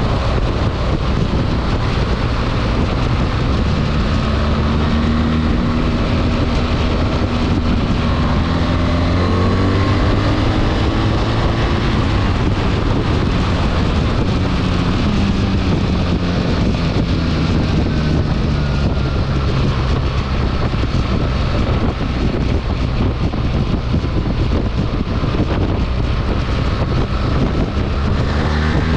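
BMW R 1300 GS boxer-twin motorcycle engine under way, its pitch rising and falling several times as it accelerates and eases off, with heavy wind noise on the microphone.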